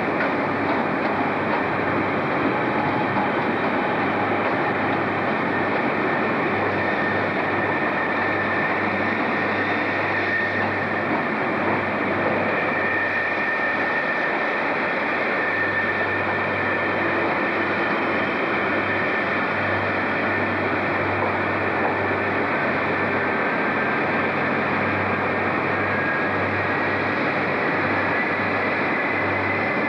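Passenger train running slowly through a station: a steady rumble and hum with a faint high whine that wavers in pitch.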